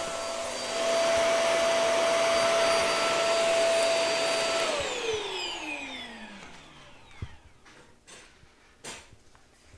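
Hart vacuum cleaner running with a steady whine, then switched off about halfway through: the motor's whine falls in pitch as it spins down over a couple of seconds. A few light knocks follow.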